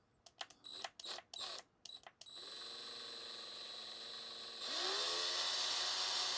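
A few handling clicks and knocks, then a small electric drill spins up about two seconds in and runs steadily, speeding up and getting louder a little past halfway as it drills a starter dimple for a pilot hole.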